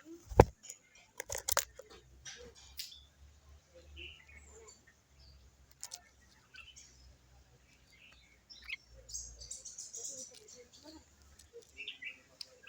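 Birds chirping in short, scattered calls over a low steady hum, with a few sharp loud knocks in the first two seconds.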